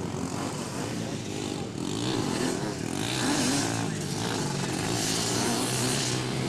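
Engines of several racing quads and three-wheelers running together, their pitch rising and falling as the riders rev and shift.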